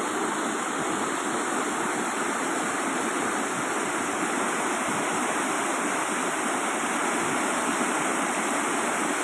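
Steady rush of flowing water, an even wash of noise with no breaks or changes.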